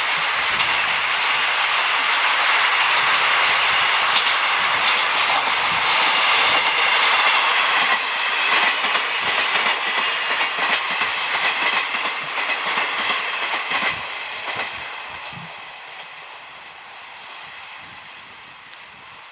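A train passing close by: loud steady running noise, then a run of wheel clacks over rail joints as the cars go by, the sound fading away as it recedes near the end.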